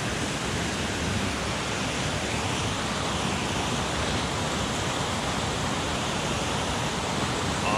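Headwater mountain stream rushing steadily, an even hiss of flowing water.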